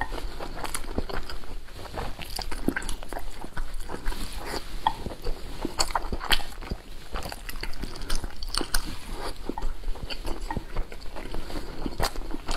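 Chewing and wet mouth sounds of a person eating soft boiled dumplings, with many irregular sharp smacks and clicks.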